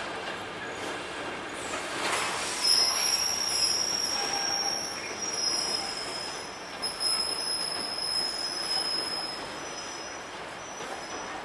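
Freight train passing, its wheels squealing on the rails: high-pitched steady squeals start about two and a half seconds in, break off briefly past the middle and carry on to near the end, over the steady rumble of the wagons.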